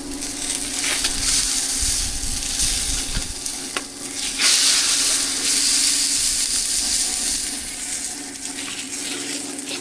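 Oil sizzling as cakes fry on a street-stall griddle, a steady hiss that swells louder about four and a half seconds in and eases near the end, with a steady low hum underneath.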